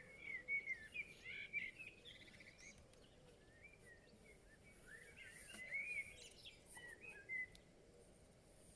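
A songbird singing two warbling phrases of quick whistled notes, the first at the start and the second about five seconds in, with a faint outdoor hiss between.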